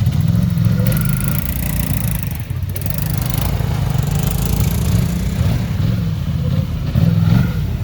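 ATV engine running at low speed, its throttle rising and falling.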